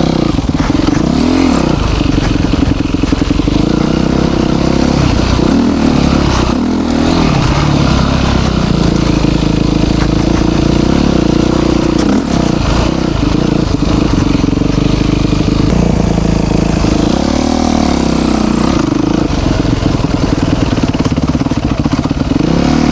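Yamaha YZ450 dirt bike's single-cylinder four-stroke engine running under way, its pitch rising and falling again and again with the throttle.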